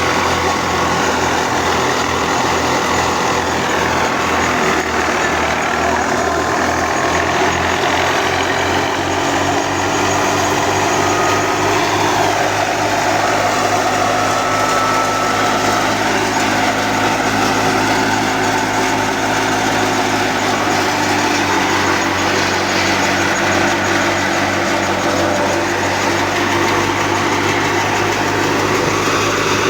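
Al-Ghazi tractor's diesel engine running at a steady speed, driving a mustard thresher, with a slight change in the engine note about two-thirds of the way through.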